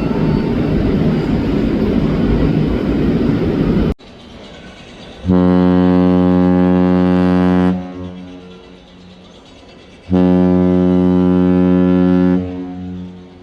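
A cruise ship's horn sounding two long, deep blasts of about two and a half seconds each, a couple of seconds apart, the signal of a ship departing port. Before them, a loud rushing noise cuts off abruptly about four seconds in.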